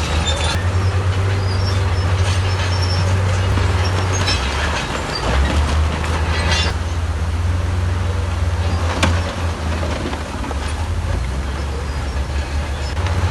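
Heavy diesel earthmoving machinery running with a steady, deep engine rumble, with a few sharp knocks along the way.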